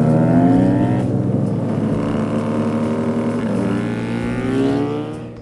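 Custom motorcycle engine running and revving, its pitch rising and falling several times, then fading out near the end.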